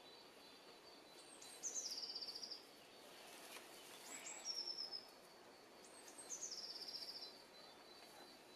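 A small songbird singing the same short song three times, each a few high notes dropping into a rapid trill, over faint woodland background noise.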